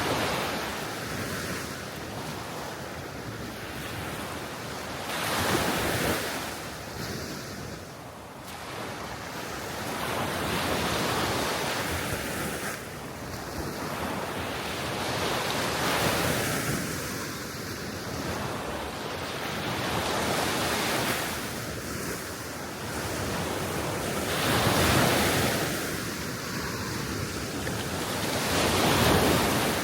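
Small sea waves washing onto the shore, the surf swelling and fading every four to six seconds, with wind blowing over the microphone.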